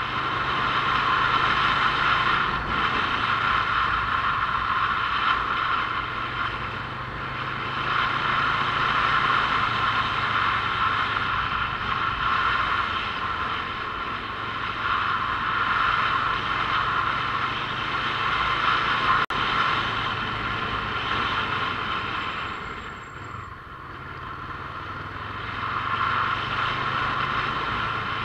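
Motorcycle engine running while riding, its low note shifting up and down with the throttle, over steady road and wind noise; the sound eases off about three-quarters of the way through and then builds again.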